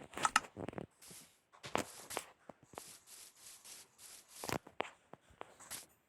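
Irregular rubbing and scratching handling noises: a series of short scratchy strokes, with sharper knocks about half a second in and again about four and a half seconds in.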